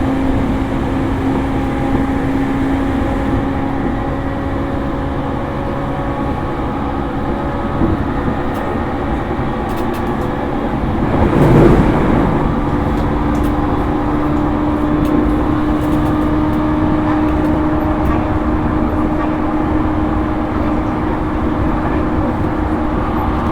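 JR East E231-series electric train heard from inside motor car MoHa E231-1101, running with rail rumble and a steady traction-motor hum that sits a little higher in pitch in the second half. There is a brief swell of noise about halfway through.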